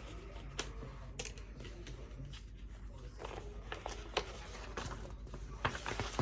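Paper handling: pages of a booklet being turned and shuffled, light rustles with a few sharp taps and clicks scattered through.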